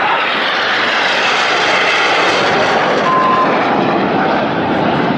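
BAE Hawk T1 jets' Rolls-Royce Turbomeca Adour turbofans, a steady, loud jet roar from aircraft turning hard at high power.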